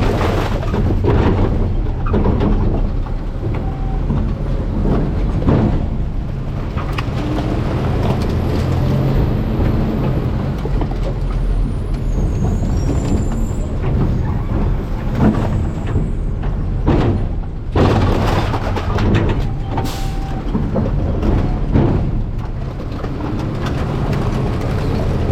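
Garbage truck running with a steady low rumble, with scattered sharp knocks and clanks around the rear hopper.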